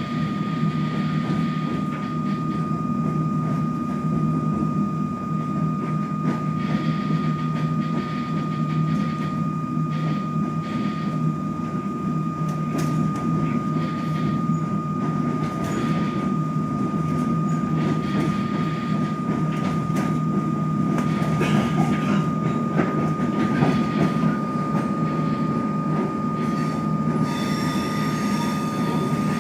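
Comeng electric suburban train heard from inside the carriage as it runs along: a steady low rumble with a constant high tone and now and then a click of the wheels over rail joints. Near the end a thin wheel squeal comes in.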